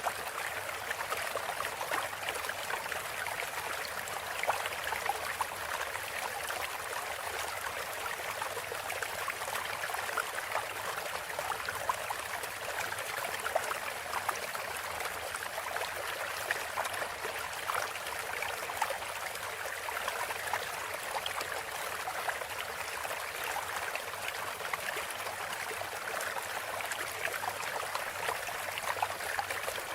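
Steady trickling and splashing of flowing water, like a small stream, with no birdsong over it.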